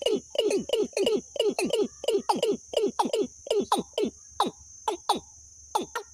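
Bird call played as a trapping lure: a fast series of short notes, each sliding downward, about four a second, with a brief pause near the end. A steady high-pitched hiss runs behind it.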